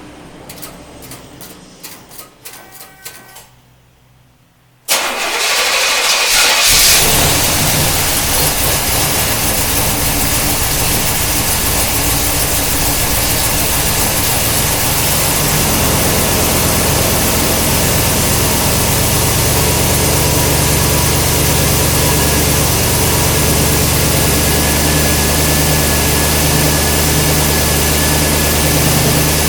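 1969 Buick 430 cubic-inch V8 with twin Quadrajet four-barrel carburetors and an aftermarket TA Performance 310 camshaft, cold-started: after a few light clicks it cranks about five seconds in, fires within a couple of seconds and settles into a steady idle.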